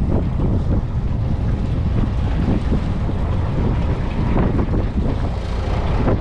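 Wind buffeting the microphone on a fishing boat at sea: a steady low rumbling noise.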